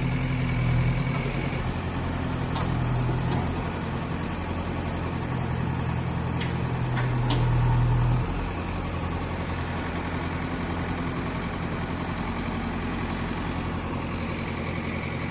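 JCB 3DX backhoe loader's diesel engine running steadily, its note swelling a few times under load and dropping back sharply about eight seconds in. A few sharp clicks come over the hum.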